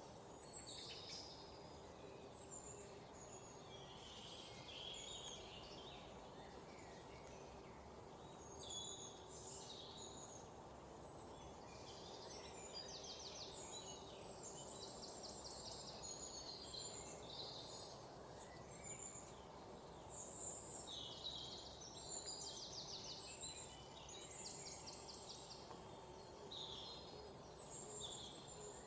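Several songbirds chirping and singing, with short chirps and a few rapid trills overlapping throughout, over a steady low background rumble of outdoor noise.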